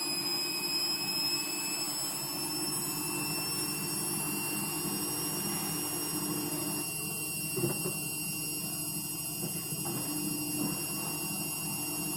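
Midea MWMFL070HEF 7 kg front-load washing machine spinning at the fourth step of its spin cycle, with the speed ramping up in stages: a steady motor and drum hum with a thin whine that rises slowly in pitch. There is a single brief knock about seven and a half seconds in.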